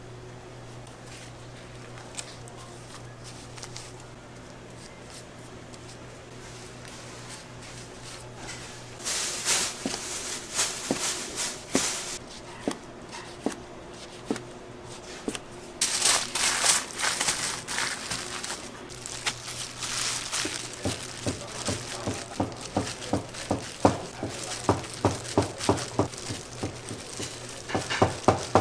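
Food wrapping being handled and crinkled in a gimbap shop kitchen, over a steady low hum, followed by a run of quick, even knocks, about three a second, from about two-thirds of the way in.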